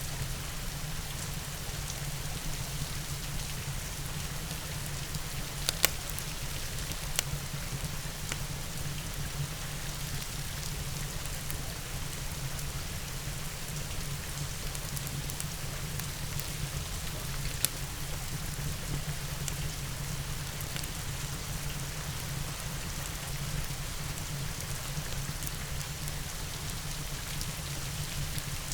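Steady rain mixed with a crackling fireplace. The rain is an even hiss over a low steady rumble, and a few sharp pops stand out, the loudest about six seconds in.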